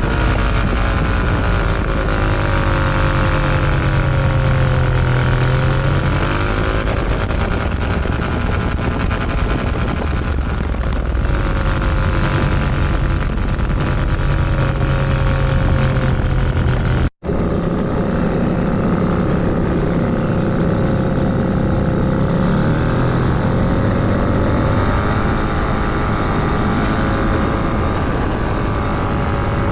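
SkyPup ultralight's small engine and propeller running steadily in flight, its pitch dipping and recovering now and then. It cuts out for an instant about 17 seconds in, then carries on.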